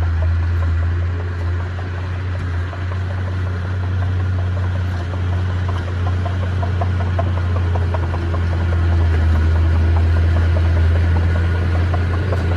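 Bulldozer's diesel engine running with a steady low drone, with faint scattered clicks over it.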